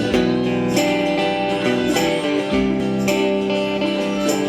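A band playing an instrumental passage between sung lines of a song, with strummed guitar and cymbal hits keeping a steady beat.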